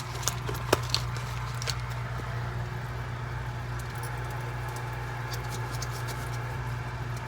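Scattered light clicks and scratches from handling the frog's shipping container, mostly in the first two seconds, over a steady low hum.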